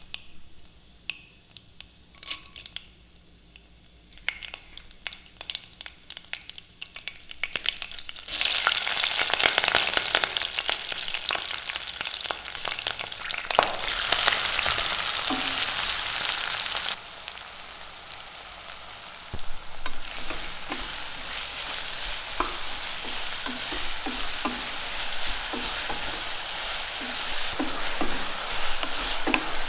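Mustard seeds crackling and popping in hot oil in a stainless steel pressure cooker, then a sudden loud sizzle about eight seconds in as more ingredients hit the oil. Sliced onions then fry with a steady sizzle while a wooden spatula stirs and scrapes the pan.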